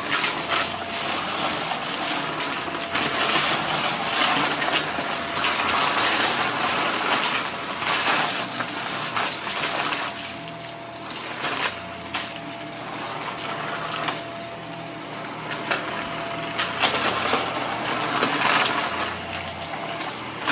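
Vacuum cleaner running and sucking up scattered debris, which rattles and crackles as it goes up into the machine, over a steady motor whine.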